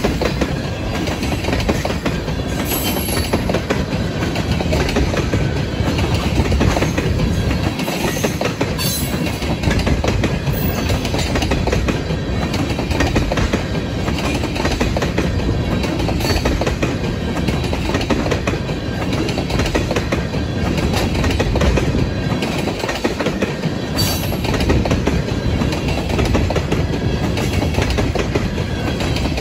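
Freight train tank cars rolling past close by: a steady rumble of steel wheels on the rails, with wheels clicking over rail joints now and then.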